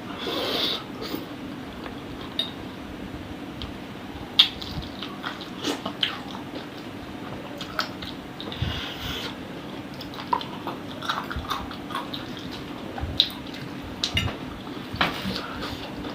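Close-up eating sounds of spicy chicken-feet satay: wet chewing, biting and lip smacks, with scattered sharp clicks, the sharpest about four seconds in.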